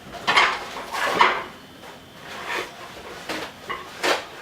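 A kitchen utensil scraping and knocking against a container as the last of the cake batter is scraped out, in a few separate strokes, the two loudest in the first second and a half.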